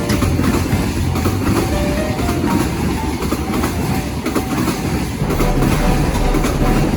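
Train passing on the tracks: a loud, steady rumble of wheels on rails.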